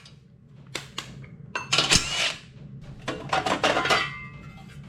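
Metal tools and parts clinking and clanking as they are handled, with a sharp knock about two seconds in and a brief metallic ring near the end.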